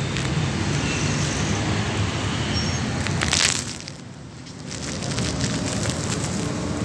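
4400 cc V8 engine of a 1984 Toyota Hilux running, its sound dropping for about a second midway and then building back up.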